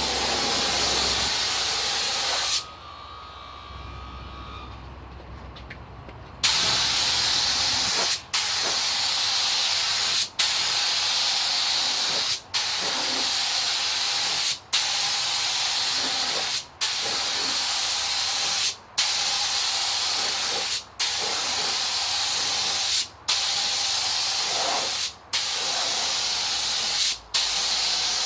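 Paint spray gun hissing as white base coat is sprayed, in long passes with the trigger let off briefly about every two seconds. There is a longer pause of about four seconds near the start.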